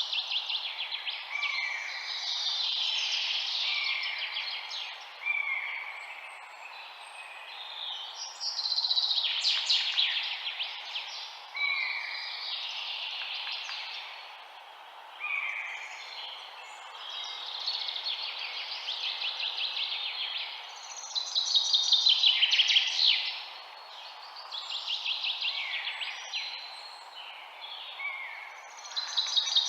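Several songbirds singing together: fast trilled phrases come every few seconds, with short repeated chirps in between, over a faint steady hiss.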